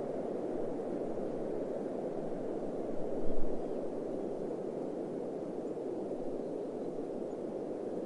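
Steady, low rushing noise of a desert ambience, with a brief low rumble a little past three seconds in.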